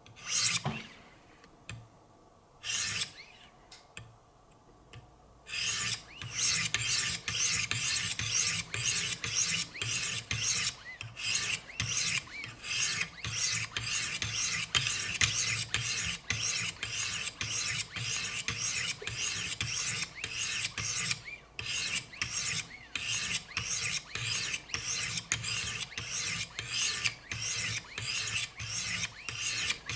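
S90V steel knife blade being stroked along 400-grit diamond plates of a Wicked Edge guided sharpener, a rasping scrape with each stroke. After two lone strokes in the first few seconds, the strokes settle into a steady rhythm of about two a second from roughly five seconds in, with one short break about two-thirds of the way through.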